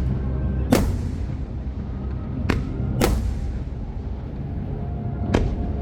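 Fireworks going off: four sharp bangs, the loudest less than a second in, then two close together a little past halfway and one near the end, over a steady low rumble.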